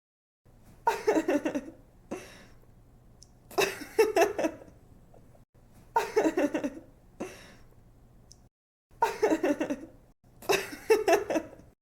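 A young woman laughing: five bouts of quick, repeated giggles, each about a second long, with faint breaths between them.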